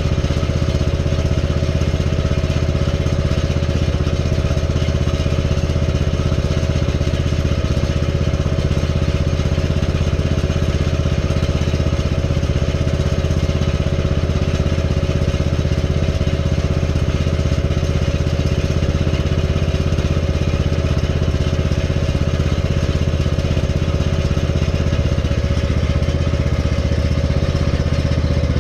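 Generator engine running at a steady, unchanging speed.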